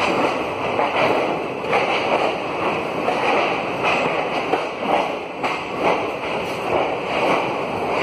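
Passenger train running along a station platform, heard from inside the coach: a steady noisy rumble with irregular knocks and clacks.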